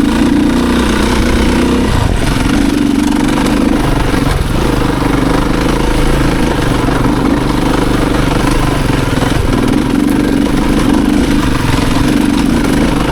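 Off-road motorcycle engine pulling under load up a steep hill, its pitch wavering as the throttle is worked, with short dips a few times.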